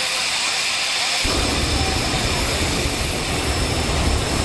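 Jet turbine engine of a jet-powered drag racing car running with a steady high hiss and whine. A heavy low rumble comes in suddenly about a second in.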